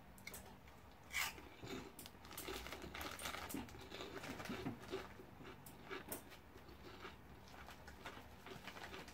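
Faint crunching of a crispy snack being chewed, with a clear plastic snack bag crinkling as it is handled and set down: scattered small crackles and clicks.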